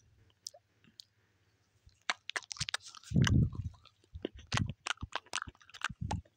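Mouth chewing and biting on a rubbery straw tip: a run of small wet clicks from about two seconds in, with a few low thuds, the loudest about three seconds in.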